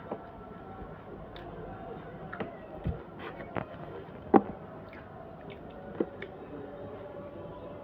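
Scattered short clicks and taps of eating from a plate, about six in all, the loudest about four and a half seconds in.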